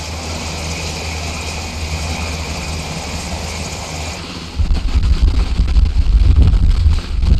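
Heavy military vehicle engines running, with a faint high whine over a low engine sound; about four and a half seconds in, a much louder low-pitched engine sound takes over.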